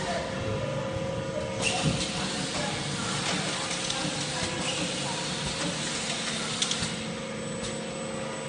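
Automatic bottle filling and capping machine running: a steady hum with a held tone and a hiss, broken by a few sharp mechanical clicks, once about two seconds in and twice near the end.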